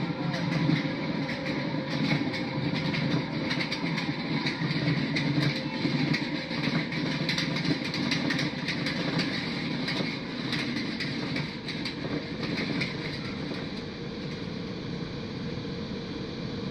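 Ride vehicle running along its track: a steady low rumble with rapid clicking and clattering, easing off about thirteen seconds in.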